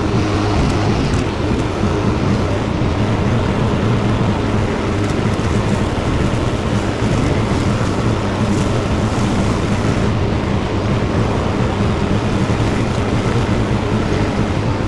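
Tractor engine running steadily with the mower cutting tall grass, heard from the driver's seat: a constant low hum under a rushing noise.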